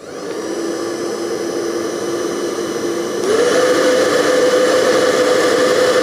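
Hair dryer running with a steady rushing whir and motor whine, spinning up at the start. About three seconds in it steps up to a higher, louder setting, its whine rising in pitch.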